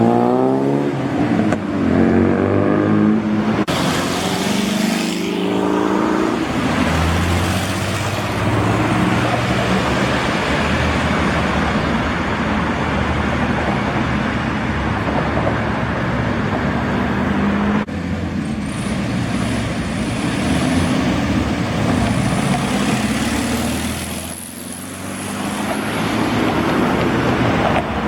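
Classic car engines accelerating, their pitch rising and falling several times in the first few seconds, then a steady run of engine and road noise as cars drive past. The noise dips briefly near the end before rising again.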